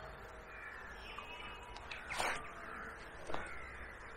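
Birds calling outdoors: faint chirping, then two short, louder calls about two and three seconds in.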